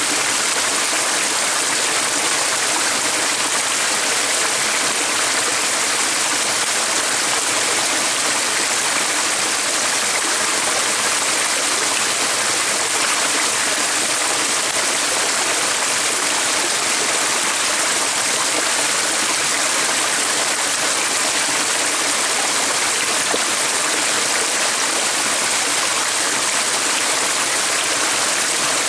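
A stream flowing steadily: an even, continuous rush of water that does not change.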